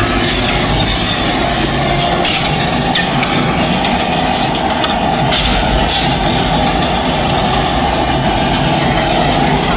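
Dark-ride sound effects of speeding freight trains rumbling along the rails, loud and steady, with a few sharp clicks in the middle.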